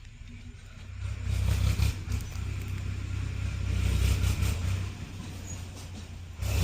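Wind buffeting the microphone: a fluctuating low rumble with hiss that surges and eases in gusts, strongest about a second and a half in and again around four seconds.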